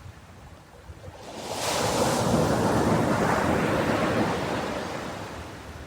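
Ocean wave breaking on the shore: a quiet lull, then one wave surges in about a second in with a bright hiss and slowly washes back out, fading near the end.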